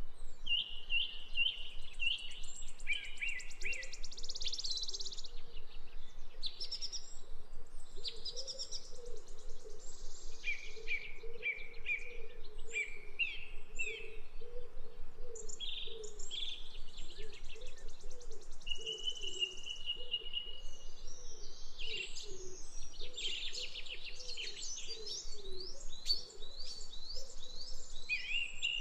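Sparrows and blackbirds chirping and calling, many short overlapping chirps and quick runs of notes, over a steady background noise.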